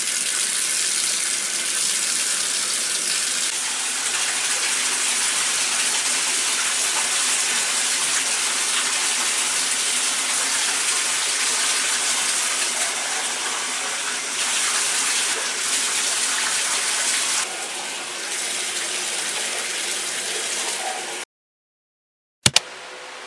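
Water running steadily in a loud hiss, like a tap or shower, cutting off abruptly near the end. A sharp click follows.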